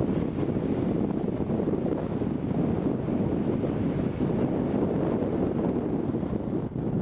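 Wind buffeting the microphone: a steady, dense rumble.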